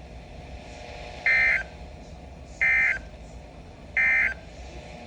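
NOAA Weather Radio end-of-message data tones from a Midland WR-120 weather radio's speaker: three short, identical bursts of warbling digital tones about a second and a half apart. They mark the end of the severe thunderstorm warning broadcast.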